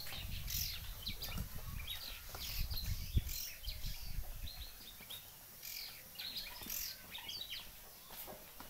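Small birds chirping in quick, scattered calls throughout, over a low rumble in the first half, with a single sharp knock about three seconds in.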